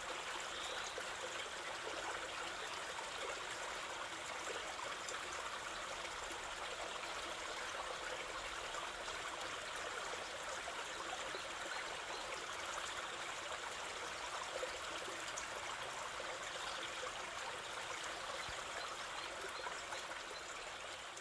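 River water flowing steadily, an even hiss of running water with trickling.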